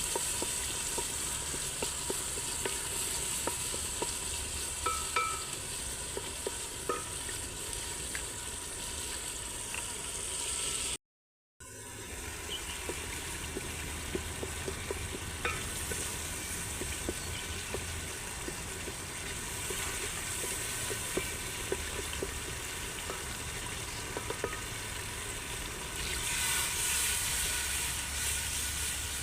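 Food frying in a pan with a steady sizzle and occasional small clicks, such as a utensil touching the pan. The sound cuts out completely for about half a second near the middle, then resumes.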